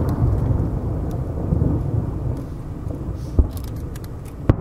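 Aerial firework shells bursting: a continuous low rumble of booms, with sharp bangs about three and a half seconds in and again near the end.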